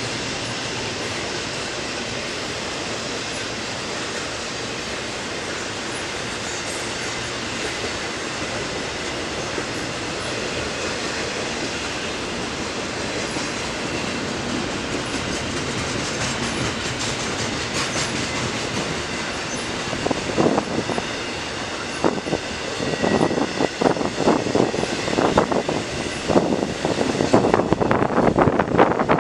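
A train rolling past with a steady rumble, then, about two-thirds of the way in, a rapid run of wheel clicks over the rail joints that grows louder as the cars go by, with a faint squeal from the wheels.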